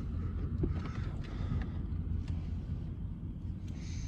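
Pickup truck engine running at low speed, a steady low rumble, with a few faint clicks.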